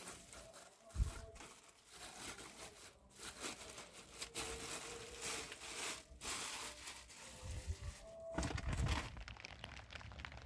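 Crinkling, rustling handling noise, with a dull thump about a second in and a cluster of heavier thuds near the end.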